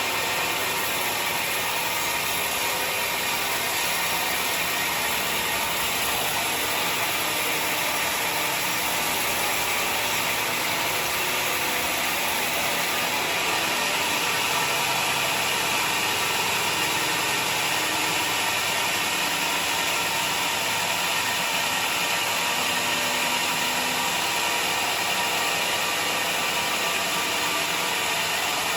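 Sawmill saw machinery running steadily, a dense mechanical noise that grows a little brighter and higher about halfway through.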